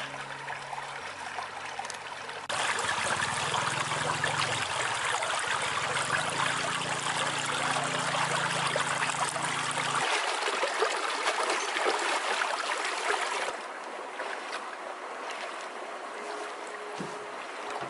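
Rushing, splashing water, louder for about eleven seconds from a few seconds in, then dropping back.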